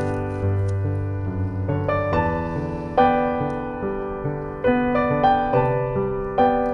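Background piano music: a gentle melody of struck notes over chords, each note fading after it is played.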